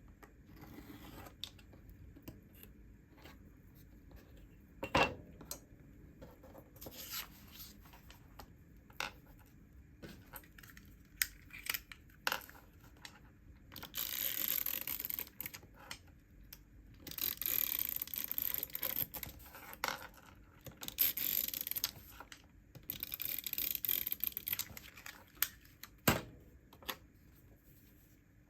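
Paper crafting sounds: scattered taps and clicks, then from about halfway through four scratchy stretches of paper being cut or torn, each a second or two long, with a sharp knock near the end.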